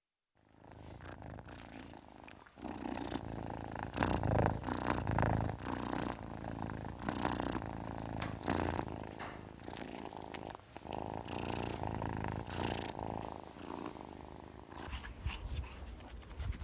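A domestic cat purring, a steady low rumble with louder swells about every second.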